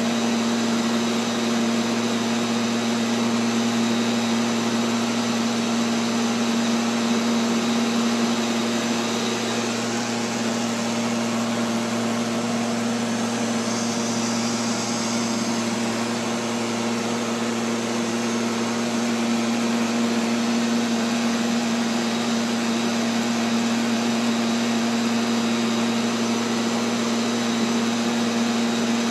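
Neato XV-11 robotic vacuum cleaner running steadily, its motor giving a constant hum under a whirring rush of air. A brief higher hiss joins in about halfway through.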